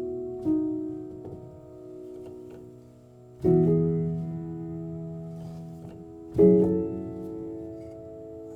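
Neoclassical piano music: slow chords struck about every three seconds, each left to ring and fade away before the next.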